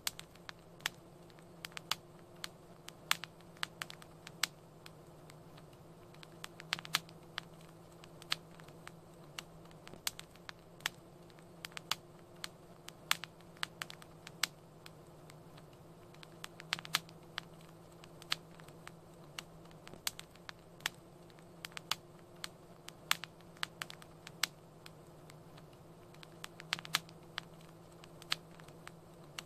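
Fire crackling in a fireplace: irregular sharp pops and snaps, several a second, some louder than others, over a faint steady low hum.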